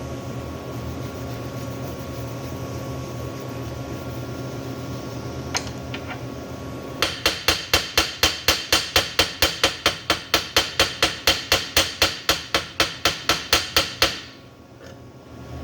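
A steady machine hum, then about seven seconds in a fast run of sharp metallic strikes, about five a second, that stops suddenly.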